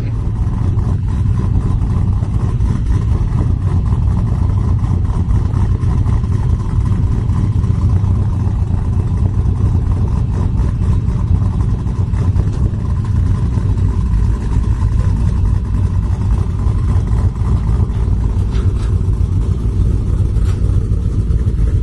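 Steady low rumble of road and engine noise from a vehicle cruising at speed while towing a car trailer.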